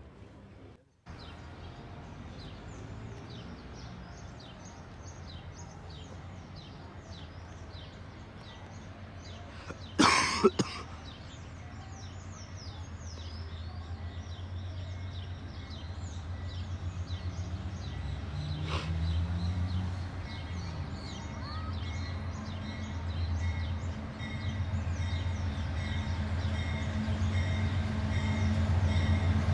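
Diesel locomotives of an approaching freight train, a low rumble that grows steadily louder, under birds chirping rapidly. A brief loud thump comes about ten seconds in.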